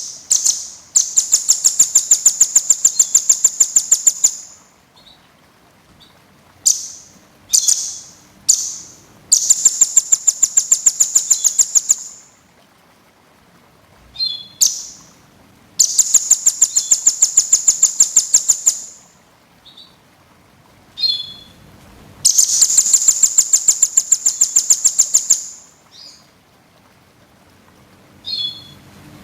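Small songbird singing high, fast trills of evenly repeated notes, four bouts of about three seconds each, with short chirps between them.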